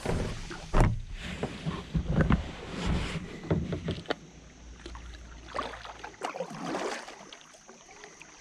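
Kayak paddling: irregular paddle splashes and knocks against the hull, with a low rumble that fades about six seconds in.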